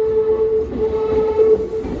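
Tobu Tojo Line electric train running, with a steady whine over a low rumble.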